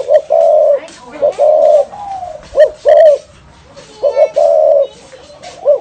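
Spotted dove cooing in its deep 'thổ rền' style: about three phrases of loud, low coos, each a short note or two followed by a longer held note. It is the territorial call used as a lure to draw in wild doves.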